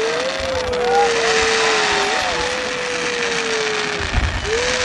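Crowd shouting and cheering on cue, with one voice close by holding a long, wavering yell that breaks twice.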